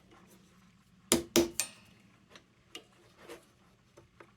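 Metal lantern parts being handled and fitted together, giving two louder knocks about a second in, then a few faint scattered clicks.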